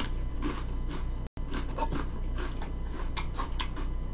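Crunching and chewing a mouthful of raw celery close to the microphone: a run of irregular crisp crackles, over a low steady hum.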